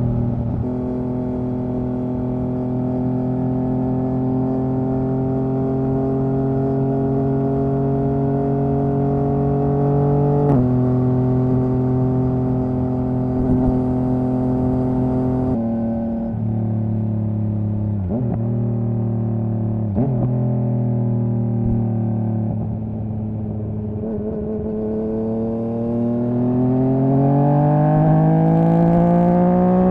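Yamaha MT-09's inline three-cylinder engine under way at a steady engine speed. Around the middle it changes gear, with a few short dips in the note, and near the end it rises in pitch as the bike accelerates.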